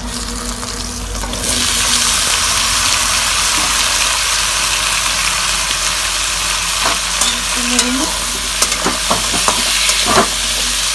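Diced pumpkin sizzling loudly in hot oil with chopped onion in a metal kadai; the sizzle grows louder about a second and a half in as the pieces go in. From about seven seconds a metal spatula clicks and scrapes against the pan as the pumpkin is stirred.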